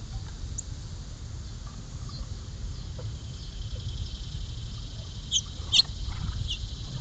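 Short, sharp bird chirps: a faint one early, then a louder cluster of three or four about five and a half seconds in, over a steady low rumble.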